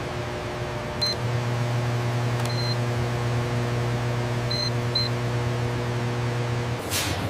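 Production-line machinery humming steadily, with four short high electronic beeps. Near the end the hum cuts off and a brief swish follows.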